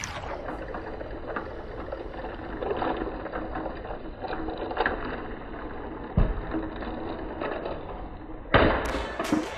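Small battery-powered toy train motors running steadily, with plastic wheels on track and a couple of knocks a little past the middle and near the end.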